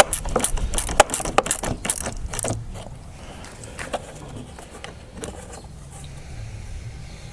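Quick metal clicks and clinks of a spanner working the loose battery earth-lead terminal clamp off the battery post, thick for the first two and a half seconds, then a few scattered clicks.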